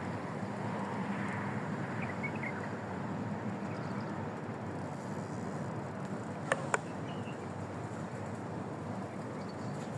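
Steady outdoor background noise, with two sharp clicks close together about six and a half seconds in.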